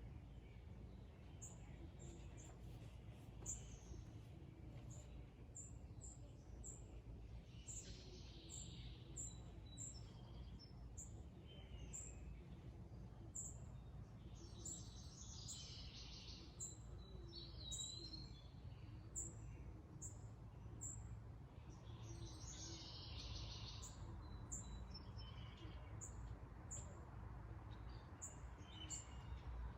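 Faint outdoor birdsong: a short, high chirp repeats about once a second, with longer bursts of other birds' song three times, all over a steady low rumble.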